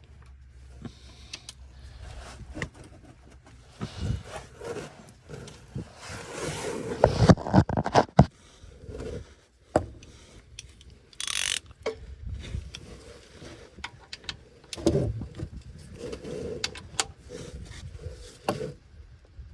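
Irregular clicks, knocks and rattles of hand tools and metal parts being handled during work on a car, busiest about a third of the way through, with a brief scraping hiss near the middle.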